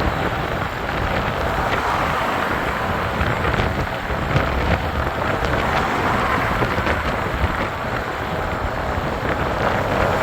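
Steady rushing noise of wind and road on a moving e-bike, with a few faint clicks.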